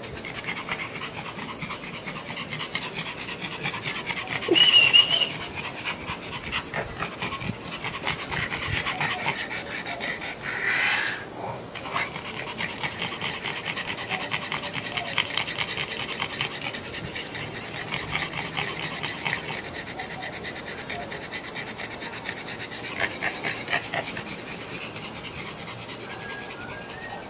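Dogs snoring in their sleep over a steady hiss, with a brief high squeak about five seconds in.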